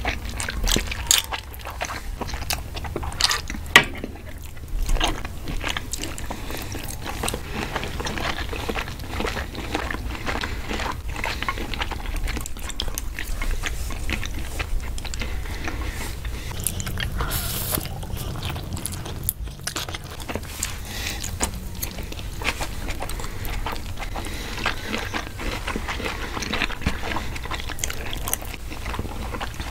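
Close-miked eating sounds from a plate of Chinese takeout of lo mein noodles, fried rice and battered chicken: steady chewing with many small wet mouth clicks.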